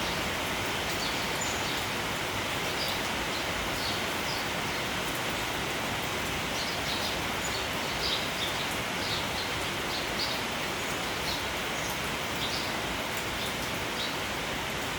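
Steady rain falling, with a flock of sparrows giving short chirps on and off throughout.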